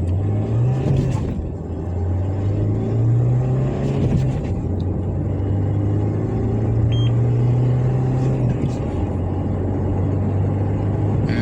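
Mahindra Scorpio-N's turbo-petrol four-cylinder engine under hard acceleration through the gears, its pitch climbing and then dropping back at each gear change, with shifts near one and a half, four and eight and a half seconds in.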